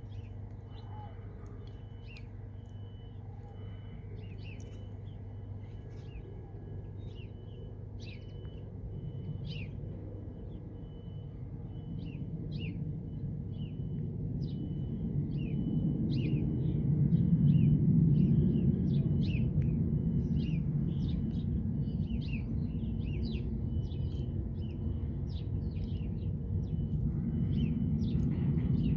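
Birds chirping over and over, with one call repeating at a steady pace, above a low rumble that swells over about ten seconds, is loudest a little past the middle and then holds on.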